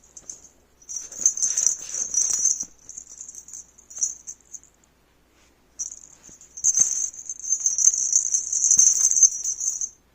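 Rattling and rustling from a kitten's rough play with a toy, in two long bursts with a few clicks between.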